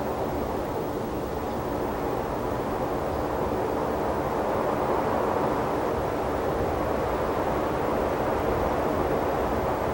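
Steady rushing ambience of open desert air with low, uneven rumbling. It grows slightly louder about halfway through.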